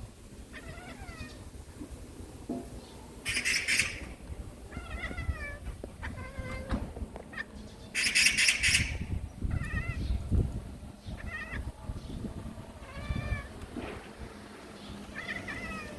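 Cat chattering: short, high, twittering chirps in small clusters every second or two. Two harsh rattling magpie calls cut in, about three seconds in and about eight seconds in.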